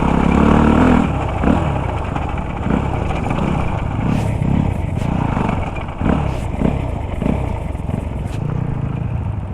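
Dirt bike engine being ridden off-road, the throttle blipped up and down over and over so that the pitch rises and falls about every half second, over a steady low rumble.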